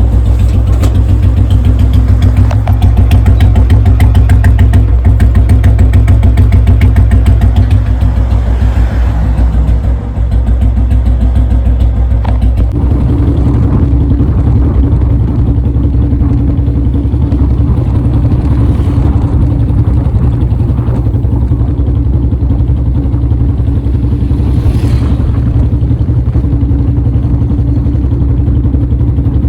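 Royal Enfield Bullet single-cylinder engine running steadily just after being kick-started, held at a high idle, which the rider puts down to a nut that is set tight. The engine note shifts about 13 seconds in.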